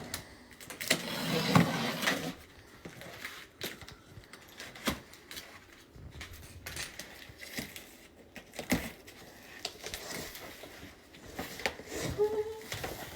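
A package being opened by hand: rustling and scraping of packaging with scattered sharp knocks and clicks, the densest rustling about a second or two in.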